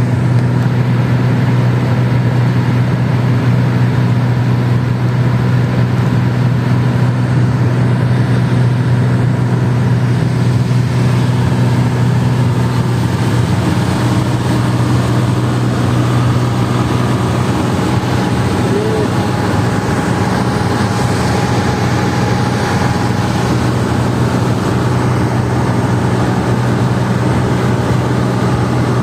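Jet airliner cabin noise during landing: a steady engine drone with a strong low hum and a faint whine, its tone shifting slightly about halfway through.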